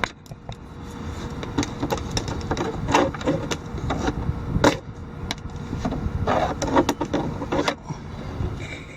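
Irregular knocks, taps and rustling inside a truck cab as someone swats and fumbles at a trapped bee, over a steady low rumble from the truck.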